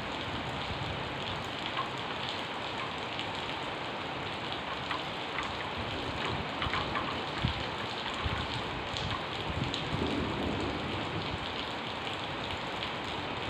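Heavy rain falling steadily, with scattered sharper ticks of individual drops.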